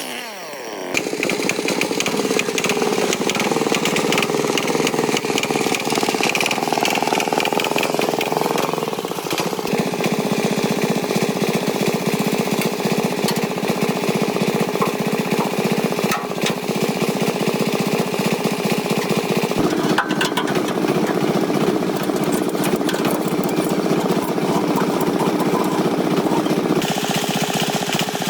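Farm tractor engine running steadily, its speed rising and falling briefly about eight seconds in.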